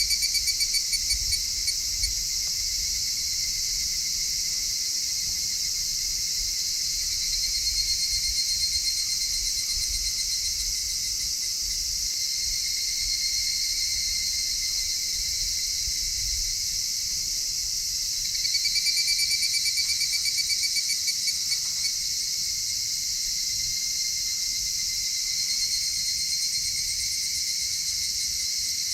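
Insect chorus: a steady high shrill from many insects, with a nearer insect trilling in pulsed bouts of a few seconds that come and go four or five times.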